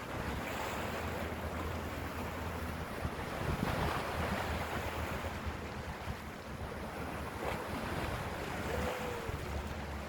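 Sea waves washing, with wind buffeting the microphone in low rumbling gusts.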